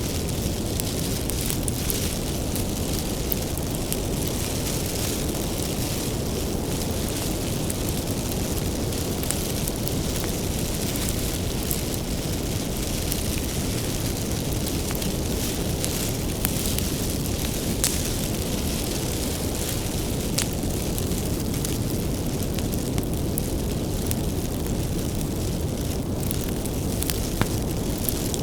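Bonfire of firewood burning: a steady low rumble of flames with scattered sharp crackles and pops from the wood.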